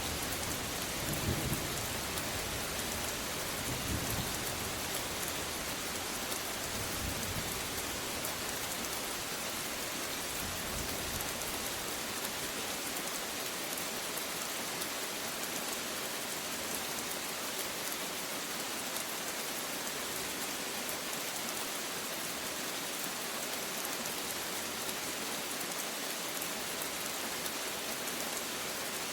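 Steady rain falling in an even hiss. Low thunder rumbles in the first several seconds and dies away about a third of the way in, leaving only the rain.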